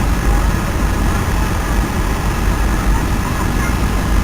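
Jet airliner cabin noise: the steady low rumble of the engines and airflow, heard from inside the passenger cabin during the landing.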